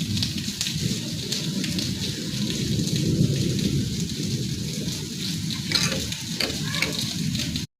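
Heavy rain falling steadily, a dense hiss over a low rumble, cutting off abruptly near the end.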